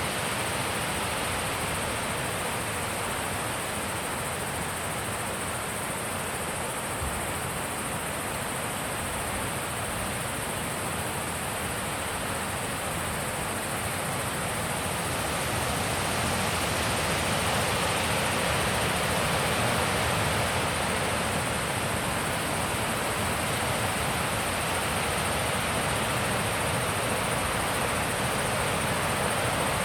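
Steady wind blowing, a broad rushing noise that grows somewhat stronger about halfway through.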